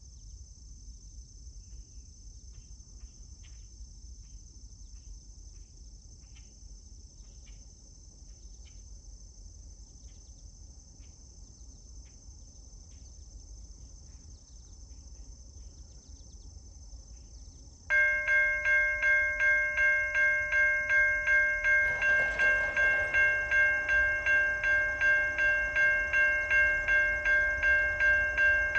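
A steady high insect buzz, then a railroad grade-crossing bell starts suddenly about two-thirds of the way in and rings steadily at about two strokes a second: the crossing signals have activated for an approaching train.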